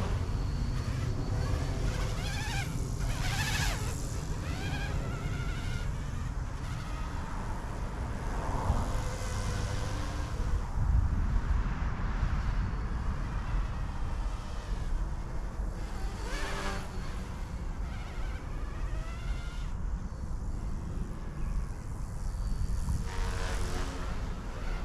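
E150 micro RC helicopter in flight: the direct-drive brushless motor and rotor give a buzzing whine that rises and falls in pitch again and again as it manoeuvres, over a low rumble of wind on the microphone.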